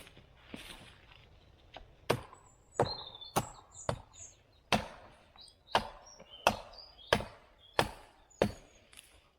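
Wood being chopped: about a dozen sharp strikes of a blade into wood, roughly every two-thirds of a second, starting about two seconds in. Birds chirp between the strikes.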